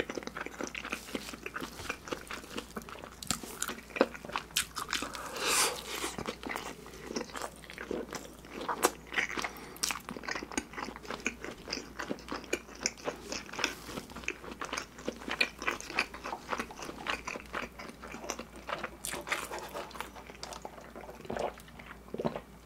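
Close-miked mouth sounds of chewing a bacon burger: steady wet clicks and crunches of thick, slightly hardened bacon and bun. A short sip through a straw near the end.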